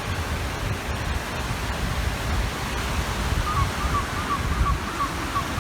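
Wind buffeting the microphone over small waves washing on a reservoir shore. From a little past halfway comes a faint high chirp, repeated about three times a second.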